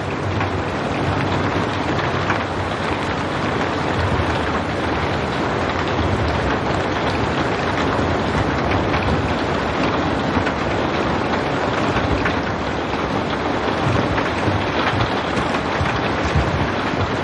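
Steady rain falling: an even, unbroken hiss with a few scattered drop taps, no thunder.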